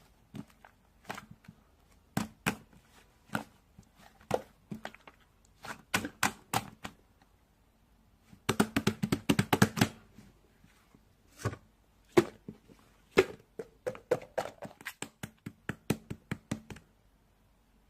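A series of sharp taps and knocks at irregular intervals, with a quick flurry of them about halfway through.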